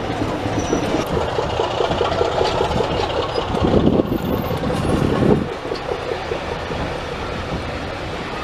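Heritage railway train running, with a fast, even beat through the steady rumble; louder for a couple of seconds midway, then dropping back to a steadier level.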